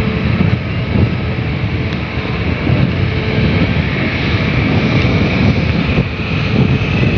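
Wind buffeting the microphone over the steady running of a long-arm excavator's diesel engine.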